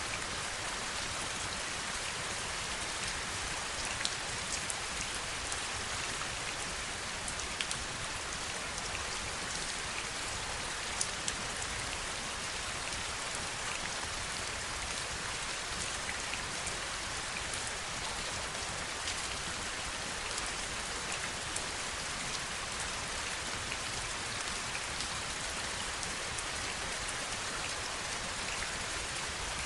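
Heavy rain falling steadily, a dense even patter, with a few single drops now and then striking sharply close by.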